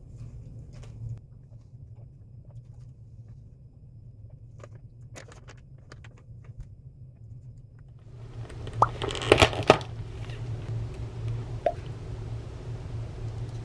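Faint crunching of dry, crisp diet-shake topping being eaten from a pouch, over a low hum. About nine seconds in comes a loud, crackling burst of sharp clicks and rustles lasting around a second and a half.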